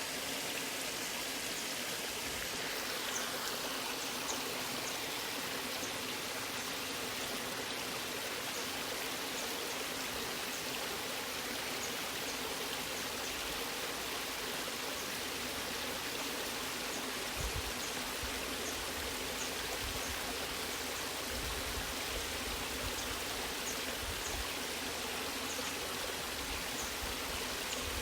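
Water rushing steadily down a natural waterfall and its stream.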